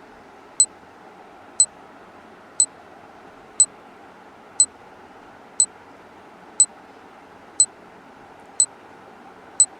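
Countdown timer sound effect: short high electronic beeps, one a second, ten in all, marking thinking time, over a faint steady hiss.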